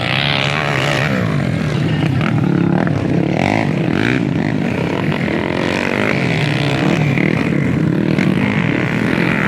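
Motocross dirt bikes racing, their engines revving up and down over and over as riders work the throttle around the track.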